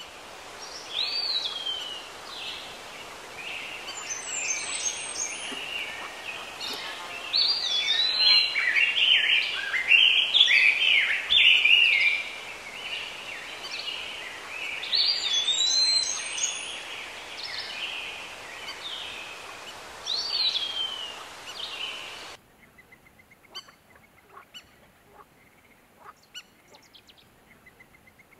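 Several birds calling and singing, overlapping chirps and whistled notes with quick rising and falling glides, over a steady hiss. It all cuts off abruptly about three-quarters of the way through, leaving only faint scattered ticks.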